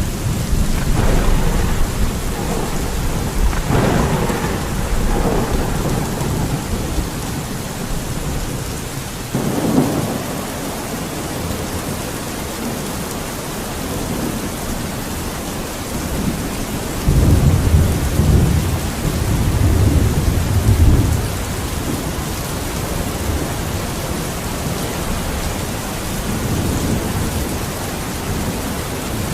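Steady rain falling, a constant hiss of drops, with a deep low rumble that swells a few seconds in and again for several seconds about two-thirds of the way through.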